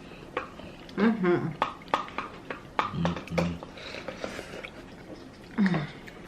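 Spoons clicking against bowls as people eat soup, a string of short sharp taps. A brief untranscribed voice sound comes about a second in and again near the end.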